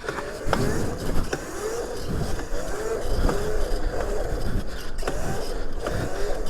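A 76-volt Razor MX500 electric pit bike being ridden: wind rushing over the microphone and road noise, with the electric motor's whine rising and falling as the throttle changes.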